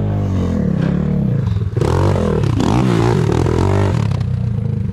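Enduro motorcycle engine revving up and down repeatedly, its pitch rising and falling, with a louder noisy surge about two seconds in. The bike is being worked on throttle to get over a difficult, slippery section of trail.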